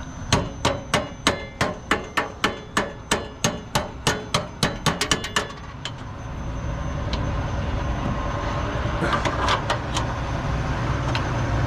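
A quick run of about twenty hammer blows, coming faster toward the end, that stops after about five and a half seconds. A low rumble then grows steadily louder.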